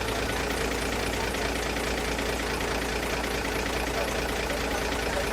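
Engine of heavy earth-moving machinery running steadily with an even low hum.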